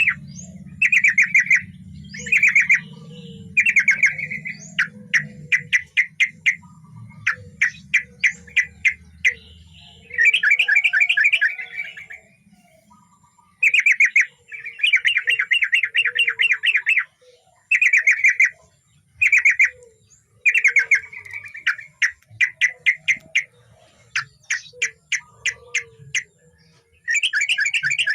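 Yellow-vented bulbul singing hard, repeating bursts of rapid bubbly chirps, each a second or two long, with short pauses between.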